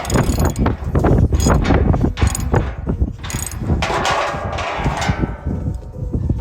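Metal solar-racking hardware being worked by hand: a loud, rapid run of clattering, rattling clicks that eases off after about four seconds.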